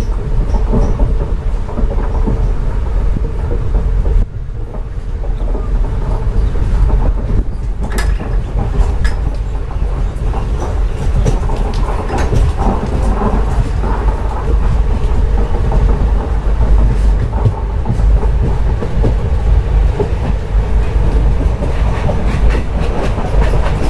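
Passenger train running at speed, heard from aboard: a steady low rumble of the carriage with the wheels clicking over the rail joints now and then.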